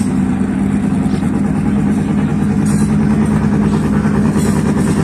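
Race car engine running at a steady idle, loud and even, with no revving.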